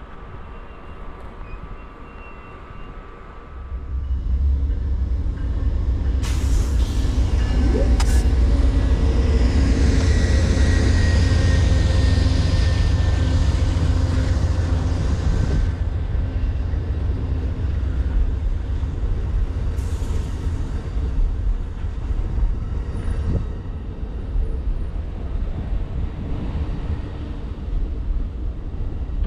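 Amtrak Southwest Chief passenger train's diesel locomotives running with a deep, steady rumble that jumps much louder about four seconds in. A long hiss of air from the air brakes runs from about six to fifteen seconds in, with a thin high squeal over it.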